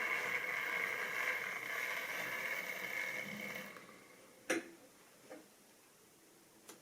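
Model train running along the track with a steady hum of motor and wheels, dying away about four seconds in. A sharp click follows, then two fainter ones.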